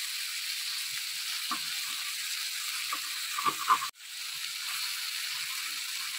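Chicken pieces sizzling steadily in oil on a hot iron tawa, with a few short scrapes and taps of a fork and metal spatula chopping them, about a second and a half in and again around three and a half seconds. The sound cuts out for an instant just before four seconds in.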